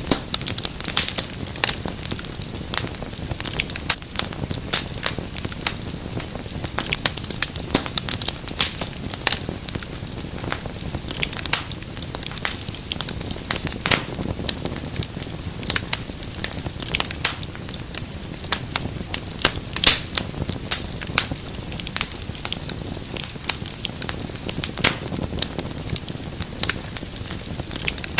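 Wood fire in a fireplace crackling steadily, with many sharp, irregular pops and snaps over a low, even rush of flame.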